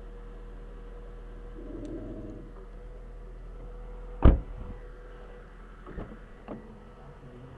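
Steady hum of a car, then one loud thump about four seconds in and two lighter knocks a couple of seconds later.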